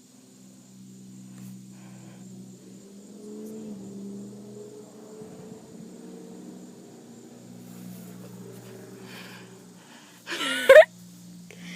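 A puppy gives one short, loud yelp about ten seconds in, over a low steady hum.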